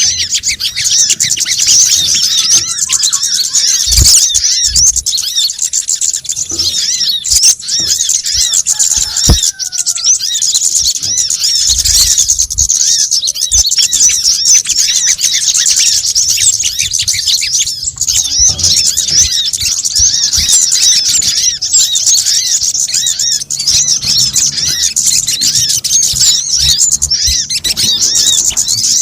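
A dense, busy chorus of rapid high-pitched chirping and twittering from small birds, played as a bird-lure call. Many calls overlap without pause, with a few brief low thumps.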